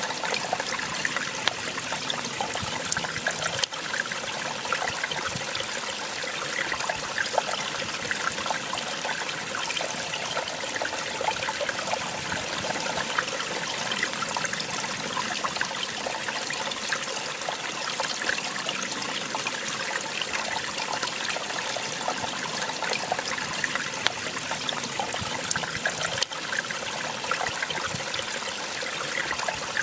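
Small waterfall splashing and trickling steadily, with a bright, splashy rush of falling water.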